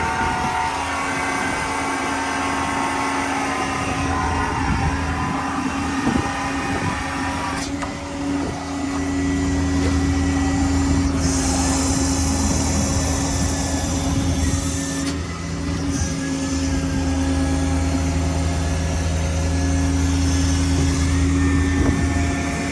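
Ford 6.7L Power Stroke V8 turbo-diesel engine of a bucket truck running steadily, a low hum with a faint whine over it. The hum grows louder about nine seconds in and dips briefly around fifteen seconds.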